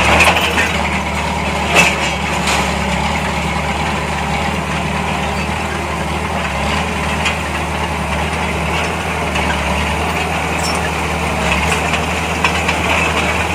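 Heavy diesel engine of earthmoving machinery running steadily, with a few short sharp knocks about two seconds in.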